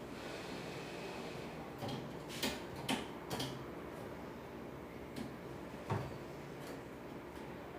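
Scattered sharp clicks and knocks, about six in all and irregularly spaced, over a steady low background hum.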